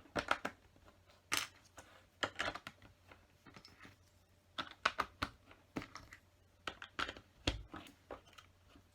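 Plastic LEGO bricks clicking and tapping as they are handled and pressed onto a model: irregular clusters of short, sharp clicks, with a dull thump about seven and a half seconds in.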